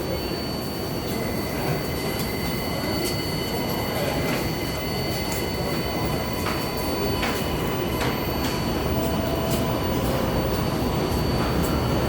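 New York City subway train moving through an elevated station: a steady rumble with thin, high wheel squeal tones held over it and scattered sharp clicks from the wheels on the rails.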